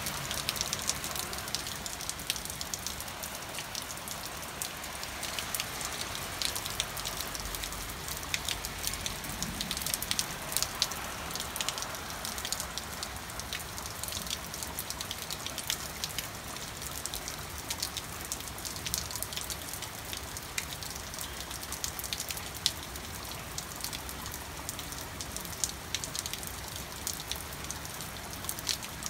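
Steady rain falling, with many sharp ticks of single drops striking hard surfaces.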